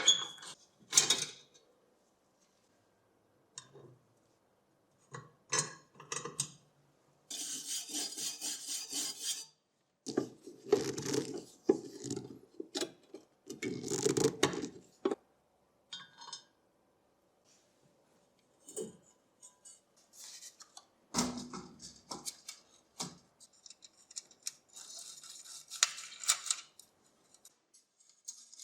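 Hand work on an old metal fan heater: intermittent scraping, rubbing and light metallic clinks with silent gaps between. There is a steady rasp about seven seconds in, lasting about two seconds.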